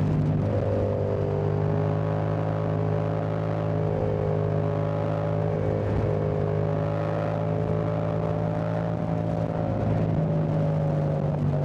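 Yamaha Tracer 7's 689 cc CP2 parallel-twin engine running under way at a fairly steady engine speed, its note shifting a little, with a brief dip in the note just after the start.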